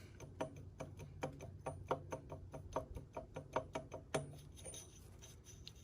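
CX Racing turbocharger's wheel being turned by hand, giving a string of irregular clicks, a few a second, for about four seconds. It catches and scrapes because the shaft nut has backed out and the blades are rubbing.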